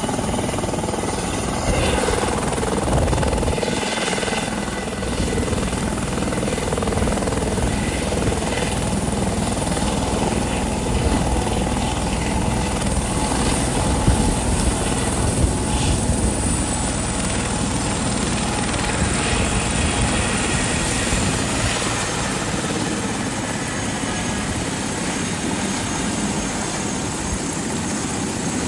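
Life-flight medical helicopter running close by: a steady, dense rotor and engine noise with a faint high turbine whine that dips slightly in pitch about halfway through.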